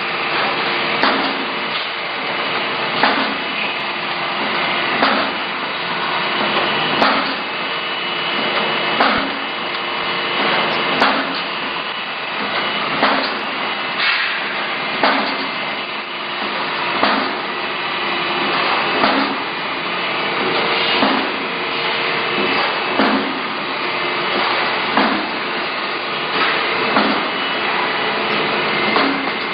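Tank-making machinery on a factory production line running with a steady mechanical din, struck through by a sharp knock about once a second in an even rhythm.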